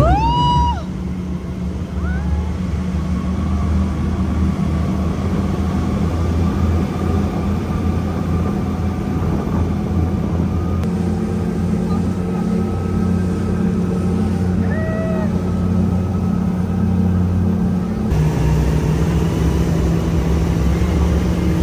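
Speedboat engine running steadily under way, a constant low rumble, with a brief rising whoop right at the start.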